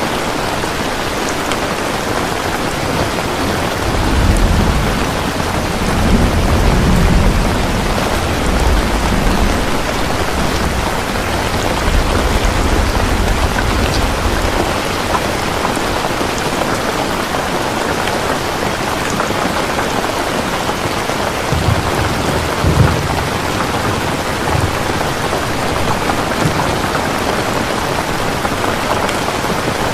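Steady rain falling, with a low rolling rumble of thunder from about four seconds in that lasts roughly ten seconds, and a couple of brief low rumbles later on.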